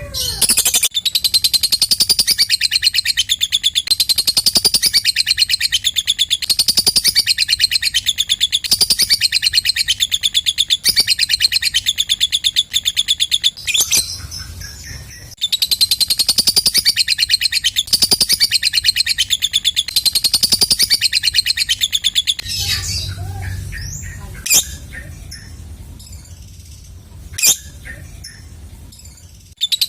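Lovebird ngekek: a very rapid, high-pitched chattering trill held for many seconds, in two long runs broken by a short pause about halfway through. After that come softer, scattered calls with two sharp single chirps near the end.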